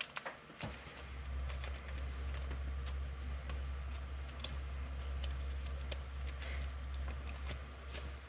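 Light, irregular clicks and ticks from trading cards and their packaging being handled, over a steady low hum.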